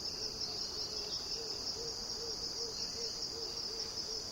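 A steady, high-pitched chorus of forest insects, with a series of low hooting notes repeating about two to three times a second.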